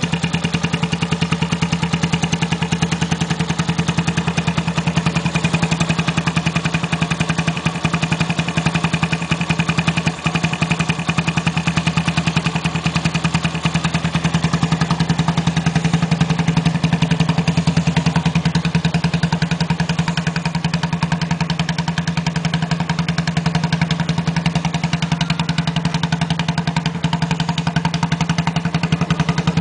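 Bashan 150 with a custom muffler, its exhaust running at a steady idle, with an even pulse and no revving.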